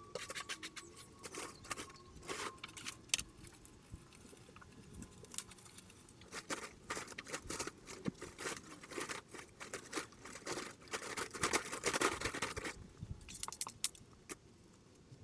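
Irregular rustling, crackling and clicking, with a busier, louder stretch about two-thirds of the way through.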